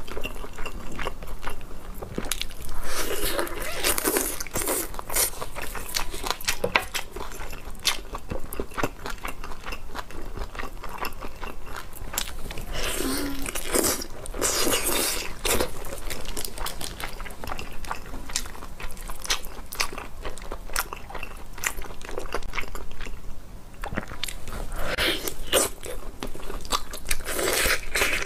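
Close-miked eating sounds of a person biting, tearing and chewing spicy roast chicken: many quick clicks of chewing, with louder stretches of biting and chewing three times.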